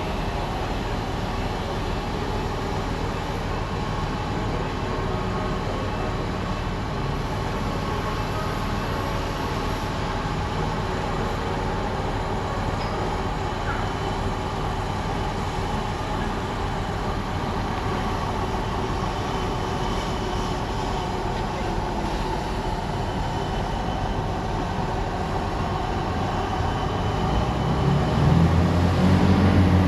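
A vehicle engine running with a steady hum. A louder, deeper engine note swells in near the end.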